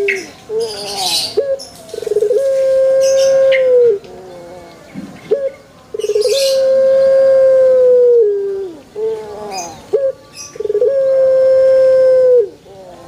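Male Barbary dove (ringneck dove) cooing: three long drawn-out coos, each opened by a short note and then held as a steady tone for well over a second before dropping off at the end.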